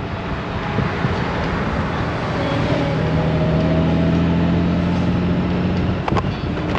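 Honda Gold Wing's flat-six engine running at cruising speed under heavy wind and road noise, its steady note rising slightly about halfway through. A few sharp clicks near the end.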